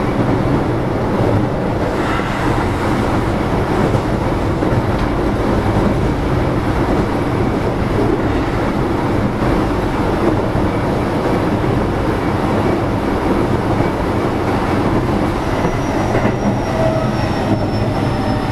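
Keio 7000-series electric train running between stations, heard from inside passenger car 7029: a steady rumble of wheels on rail. Near the end a faint high whine comes in and slowly falls in pitch.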